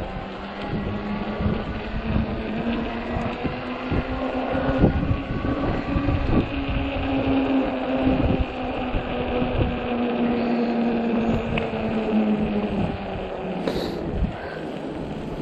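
Electric hub motor of a 48 V fat-tire e-bike whining under power while riding, its pitch rising a little then easing off and cutting out about thirteen seconds in. Fat tires rumble and knock over crunchy snow and ice underneath.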